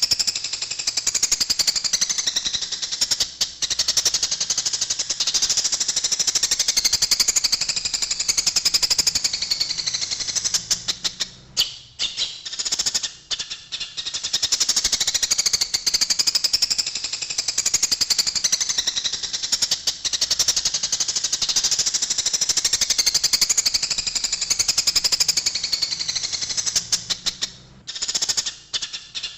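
Eurasian tree sparrows chattering in a rapid, unbroken stream of harsh chirps, the agitated calls of sparrows fighting, with two short breaks.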